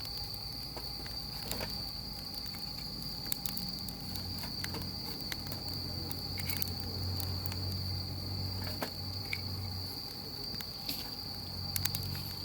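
Firewood crackling as it burns, with irregular sharp pops and snaps, over a steady high whine and a low hum.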